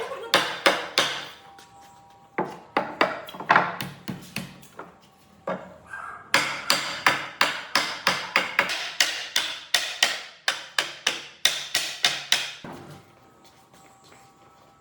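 Hammer blows in quick runs with short pauses between them. The longest run lasts about six seconds at about three blows a second, then the blows stop.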